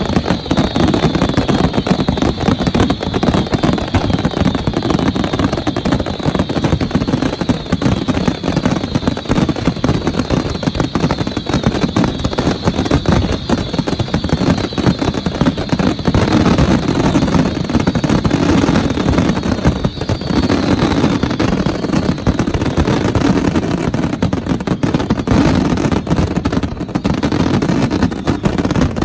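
Dense, continuous barrage of fireworks: rapid bangs and crackling run together without a break, with many short falling whistles over the top.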